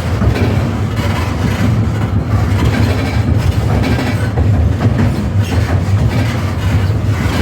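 A new tram running on its rails with a steady low rumble, with the car's creaking and squeaking mixed in. The squeak is the fault riders complain of in these new trams.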